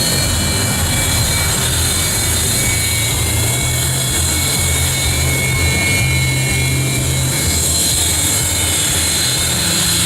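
Su-30MKM's twin AL-31FP turbofan engines running steadily at idle on the ground: a loud even jet roar with a high hiss and a thin compressor whine.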